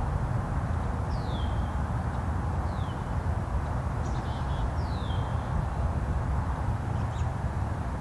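Steady low outdoor rumble with a few bird calls above it: three short descending whistled notes and a brief chatter.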